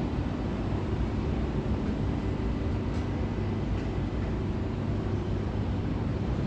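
Steady rumble and low hum of a New York City subway train.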